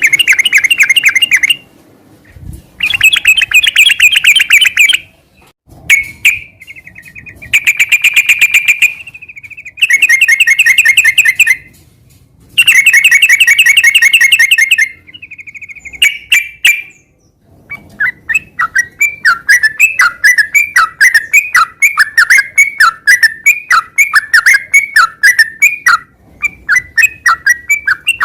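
Yellow-vented bulbul (trucukan) singing vigorously: loud, fast trilled phrases of one to three seconds with short pauses between them, then from about two-thirds of the way in a long unbroken run of rapid repeated notes.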